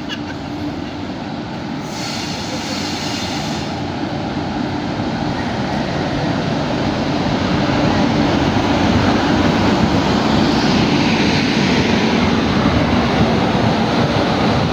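Electric-locomotive-hauled passenger train pulling into the station and rolling past close by: a continuous rumble of wheels on rails, growing louder over the first half and staying loud as the coaches pass.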